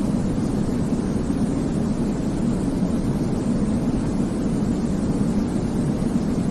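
Steady, even sleep noise played for a baby, deep and rumbling, with most of its weight low and only a soft hiss above; it does not change.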